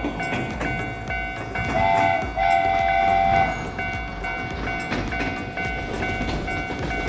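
Train horn sounding a short blast and then a longer one about two seconds in, over a steadily repeating railroad-crossing bell and the rumble of a passing train.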